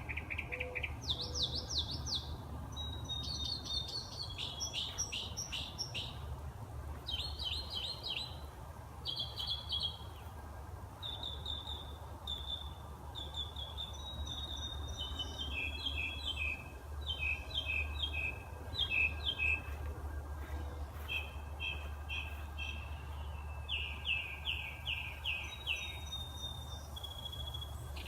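Birdsong: a long run of varied phrases, each a quick series of repeated high chirps or trills, following one after another with short gaps, over a steady low rumble.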